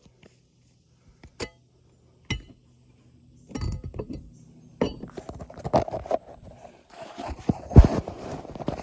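Roof repair work on asphalt shingles: a few separate clicks and clinks, then from about halfway a busy stretch of scraping and clattering with knocks, ending in one heavy thump near the end.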